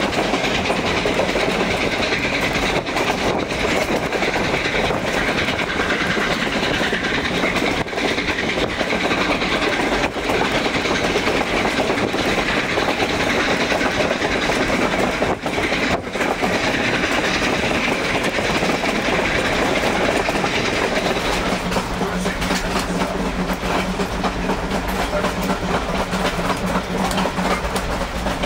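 Durango & Silverton narrow-gauge steam train rolling along, its wheels clicking steadily over the rail joints. About three-quarters of the way through, a steady low drone joins in.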